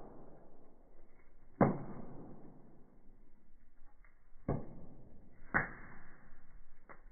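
Firewood burning in a fireplace, crackling and popping. There is a loud pop about one and a half seconds in, then three softer ones, each fading out slowly.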